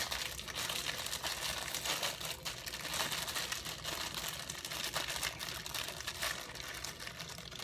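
Plastic ramen noodle wrappers crinkling and rustling as they are handled and torn open to get at the seasoning packets, a dense run of small crackles.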